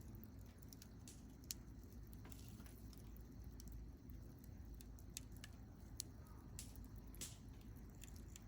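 Wood campfire crackling faintly, a steady low hiss of burning broken by scattered sharp pops and snaps, a few of them louder.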